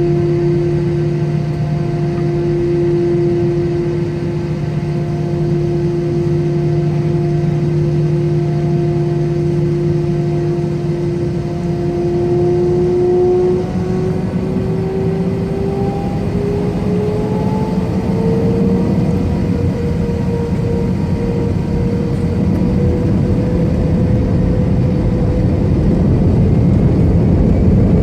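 Airbus A320 jet engines heard from inside the cabin: a steady hum, then from about halfway a rising whine as the engines spool up toward takeoff thrust, settling at a higher pitch. A rumble builds louder near the end as the takeoff roll gets under way.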